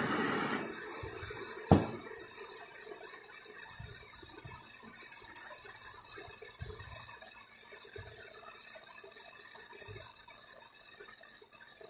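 A cold spark machine's fan blowing steadily, cutting off about half a second in, then one sharp click. After that come faint low knocks and handling noise as the machine is worked on.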